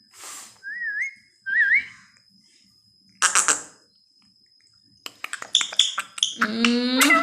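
Pet parrot whistling twice in short wavy notes, then giving a harsh squawk, followed by a run of clicks and chirps and a drawn, rising call near the end.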